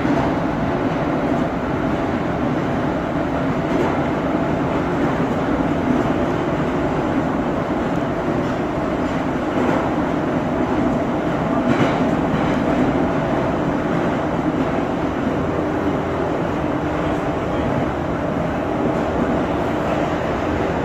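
Moscow Metro 81-717.5M/81-714.5M 'Nomernoy' train running between stations in the tunnel, a steady rumble and drone of wheels and traction motors heard from inside the car. A couple of faint clicks come near the middle.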